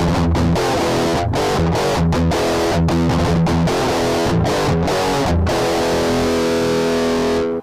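Electric guitar played through a Caline CP-15 Tantrum heavy metal distortion pedal: a low, heavily distorted riff broken by short stops, then a held chord from about five and a half seconds in that is cut off sharply near the end.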